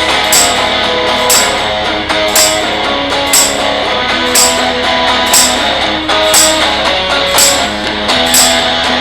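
Fuzzed electric guitar playing a repeating blues riff, with a tambourine struck on the beat about once a second.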